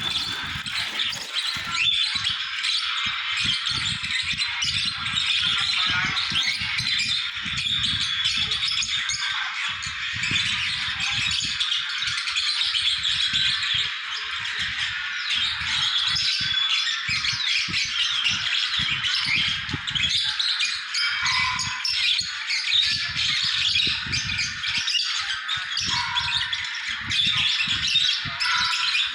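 A flock of small cage birds chirping and chattering over one another without a break, with irregular low rattling knocks underneath.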